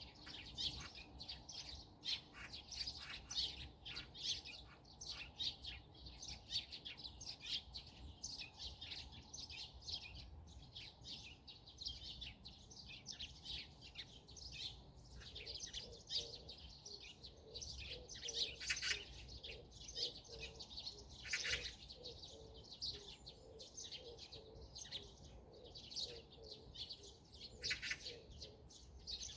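Several birds chirping and singing, many short high calls overlapping without pause, over a faint low background hum.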